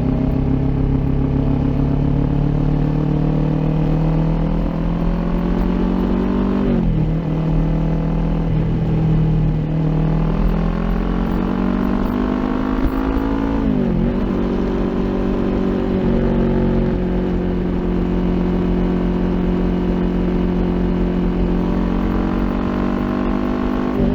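Kawasaki Ninja 400 parallel-twin engine through an Akrapovic aftermarket exhaust under way, climbing steadily in revs. Twice the note dips sharply and picks up again as the rider shifts up a gear, then it settles at a steady cruising pitch.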